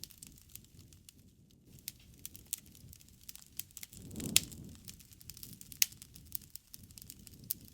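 Wood fire crackling in a fireplace: irregular snaps and pops over a soft low rumble of flames. The loudest pop comes about four seconds in, with another sharp one near six seconds.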